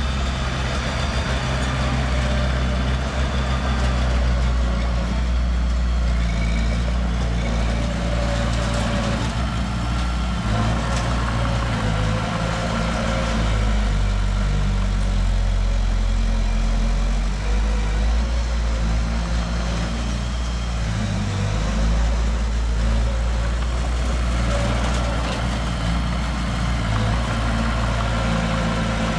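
Heavy diesel engine of earthmoving machinery running steadily, a deep, even drone.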